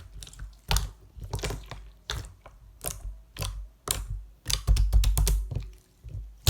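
Sky-blue clear slime being squeezed and worked by hand, giving an irregular run of sharp clicks and pops from trapped air.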